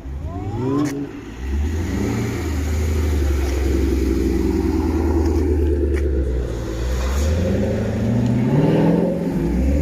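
A car engine starting, with a short rising whine as it catches. It is revved once, settles to a steady idle, then is revved up again near the end and drops back.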